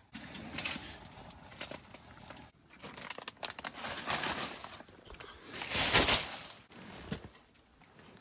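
Irregular crinkling and rustling of a plastic food pouch being handled, in a string of uneven bursts with the loudest about six seconds in.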